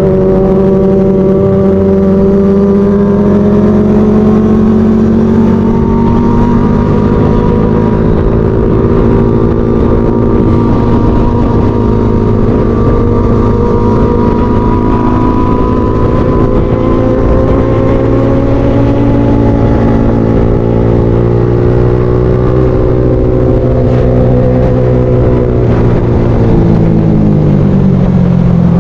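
Motorcycle engine running at a steady cruising speed under load, with wind rush on the microphone; the engine note eases off briefly near the end and then picks up again.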